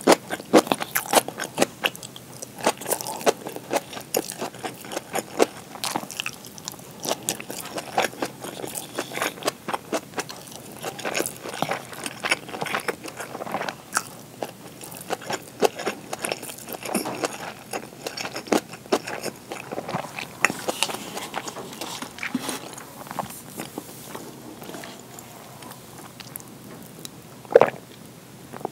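Close-miked eating of gyoza, rice and kimchi with tuna: a steady, irregular run of chewing and biting with many short sharp mouth clicks, and one louder knock near the end.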